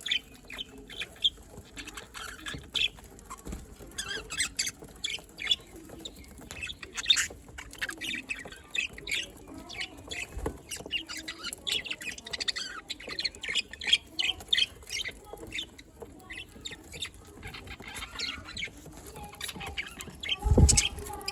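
A colony of budgerigars chattering, a steady stream of short, quick chirps and squawks from many birds at once. A dull thump comes near the end.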